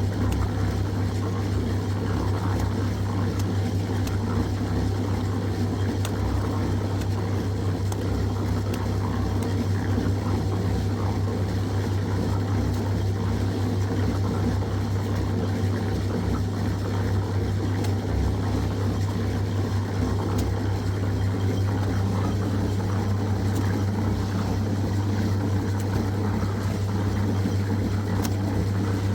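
A motor running steadily with a constant low hum, unchanged throughout.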